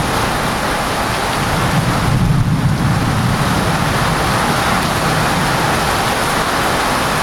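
Heavy monsoon rain pouring steadily, with a low rumble of thunder swelling about two seconds in.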